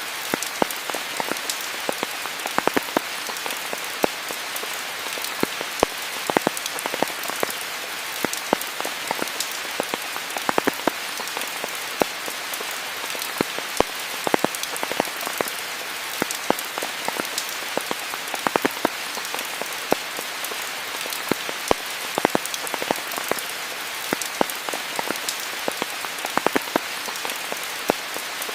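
Steady heavy rain falling, an even hiss with many sharp, irregular ticks of close drops striking nearby.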